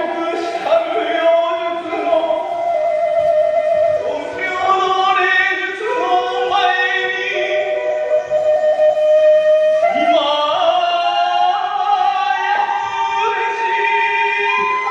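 Hiroshima kagura music: a high melody line of long held notes that step and slide from pitch to pitch.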